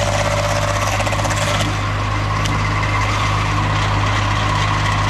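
Engine running steadily, with a higher tone and fast rattle over it that stops about a second and a half in.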